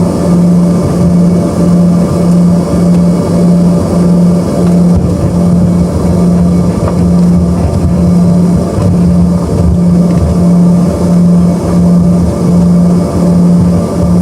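Cabin noise of the Embraer ERJ-145's rear-mounted Rolls-Royce AE 3007 turbofans running, heard from a seat near the engines: a loud rumble with a low hum that swells and fades about once every three quarters of a second.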